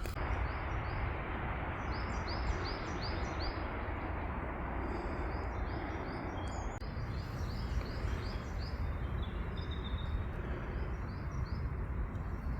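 A small bird singing runs of short, repeated chirping notes over a steady rushing noise.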